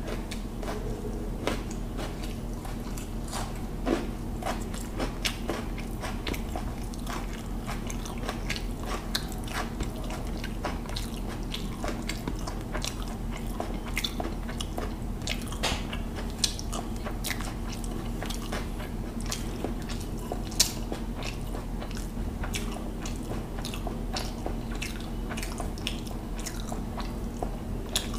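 Close-up chewing and wet mouth sounds of someone eating rice with fish, with many scattered sharp clicks and fingers working the rice on a steel plate, over a steady low hum.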